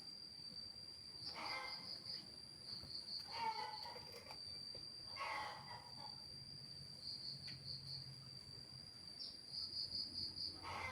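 Steady high-pitched insect trill that breaks at times into quick pulses, with three brief louder sounds in the first half.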